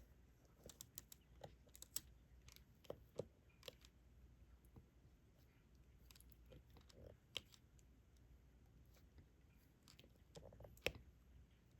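Faint, irregular small clicks and taps of a diamond-painting stylus picking up resin drills and pressing them onto the canvas, the loudest click near the end.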